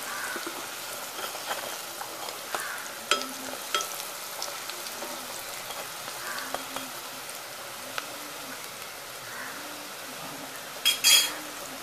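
Chana dal vadas shallow-frying in hot oil in a pan, a steady sizzle. A metal spoon clicks against the pan a few times, with a brief louder clatter near the end.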